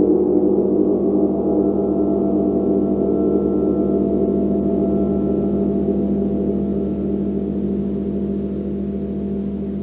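Gong sounding a sustained wash of many overlapping tones, with a slow wavering pulse in the low hum, gradually fading.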